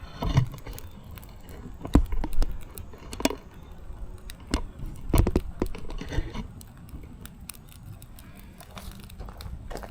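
Firewood burning in a fireplace, crackling and popping in irregular sharp snaps, with the loudest pops about two seconds and five seconds in.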